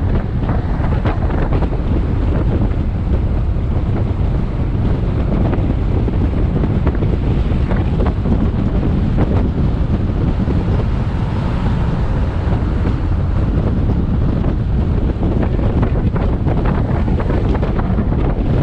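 Steady wind buffeting an action camera's microphone on a moving motorbike, with the motorbike's engine and road noise running underneath.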